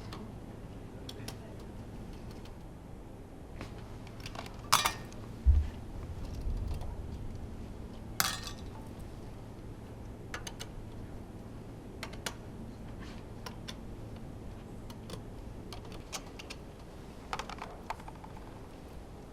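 Scattered sharp clicks and light metallic clinks of hand tools and small parts being handled while a Honda V10 F1 engine is taken apart, with a dull low thump about five and a half seconds in, over a steady low hum.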